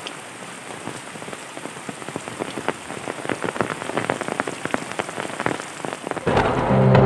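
Steady rain with many separate drops striking a surface, the strikes growing denser and louder through the middle. Near the end, music comes in over it and becomes the loudest sound.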